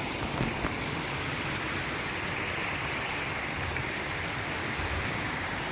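Shallow creek water running and trickling over rocks: a steady, even rush.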